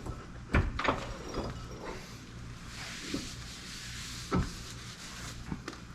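Parts of a dismantled hydraulic steering cylinder being handled: a few sharp knocks and clunks about half a second in and again at about four and a half seconds, with a soft scraping rustle between.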